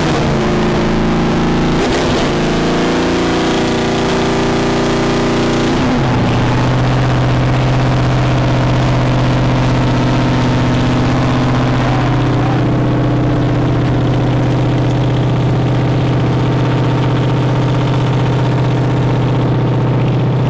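A car engine running at held revs with a steady drone, dropping to a lower steady pitch about six seconds in.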